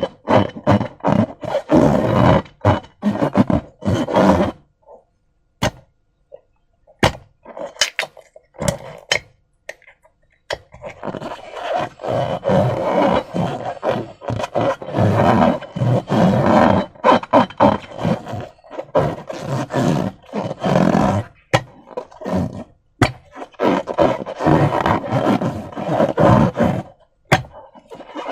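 Sticky slime squelching and crackling as it is squeezed and worked by hand, with wet, gassy squishes. There is a lull of a few scattered pops and clicks before the squelching starts up again for a long stretch.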